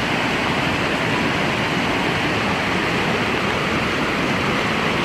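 Loud, steady rush of water from a stream swollen and overflowing with heavy rain.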